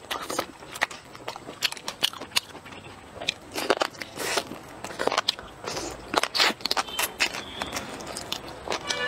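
A person biting and chewing braised pork trotter close to a clip-on microphone: irregular sharp clicks, mouth smacks and crackles as the sticky skin and meat are worked in the mouth.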